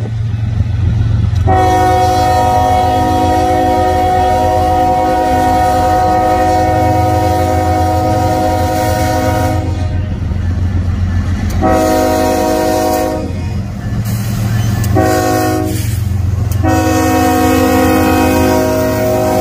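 Diesel freight locomotive's multi-chime air horn blowing the grade-crossing signal: a long blast, a shorter one, a short one, then a long blast held on, over the steady low rumble of the approaching train.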